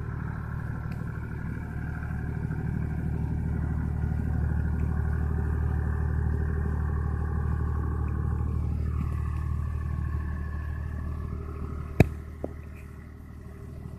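Tractor engine running steadily; its pitch drops about nine seconds in as it slows, and a single sharp click sounds near the end.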